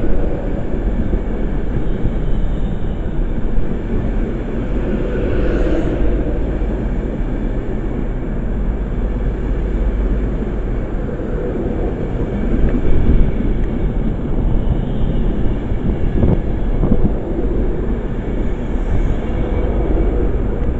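Passenger train running through the station, giving a steady rumble of wheels and traction throughout.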